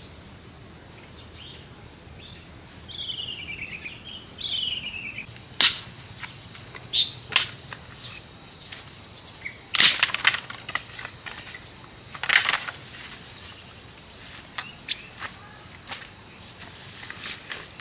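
Insects trilling in one steady, unbroken high tone. A few short falling bird chirps come early on, and several sharp knocks or clicks come one after another, the loudest about ten seconds in.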